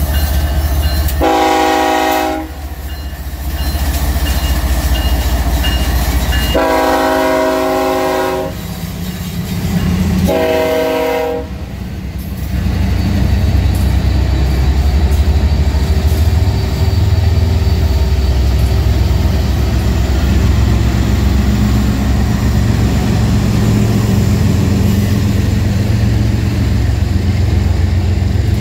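BNSF freight train passing close by: the lead locomotive's air horn sounds three chord blasts, short, long, short, in the first twelve seconds. After that the diesel locomotives, including an SD70MAC, rumble steadily past, followed by autorack cars rolling on the rails.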